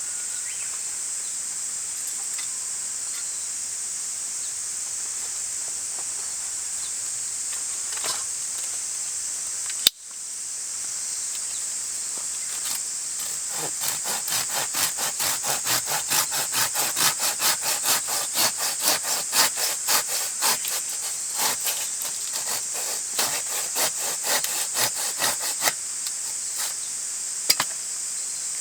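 Hand saw cutting through wood in quick back-and-forth strokes, about two to three a second, starting about halfway through and stopping shortly before the end.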